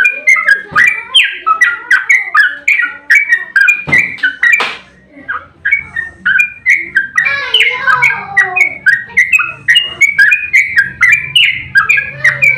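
Yellow-vented bulbul (trucukan) singing a long, fast run of chirpy notes, several a second, with a short break about five seconds in. This is the 'ropel' rolling song used as a lure to make other trucuk birds answer.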